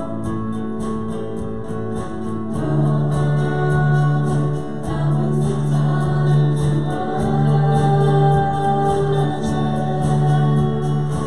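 A congregation singing a worship song together, with instruments accompanying and long held notes over a steady bass line.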